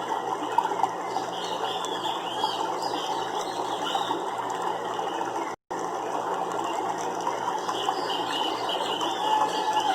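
Nature soundscape: a dense clicking, rattling chorus of animal calls with short rising-and-falling chirps over it. The sound cuts out completely for an instant a little past halfway.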